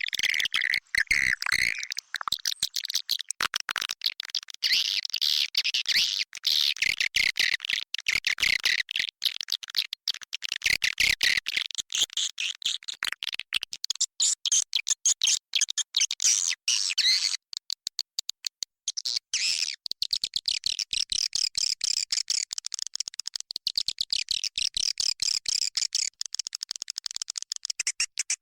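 Swiftlet calls: a dense, rapid twittering chatter of high chirps and clicks, with a short thinner stretch in the middle. It is a swiftlet-house lure recording of the roosting ('inap') call, played to draw edible-nest swiftlets in to roost.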